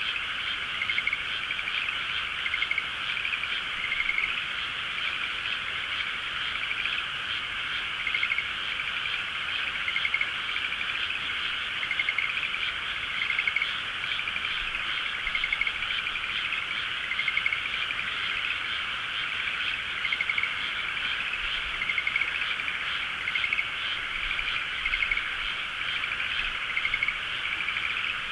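Dense, continuous chorus of many frogs calling at once, with overlapping trilled calls and small swells every second or two.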